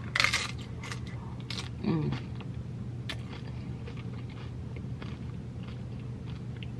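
A tortilla chip bitten with a loud crunch right at the start, then chewed, with a few sharper crunches and scattered small crackles. A brief hummed 'mm' comes from the eater about two seconds in.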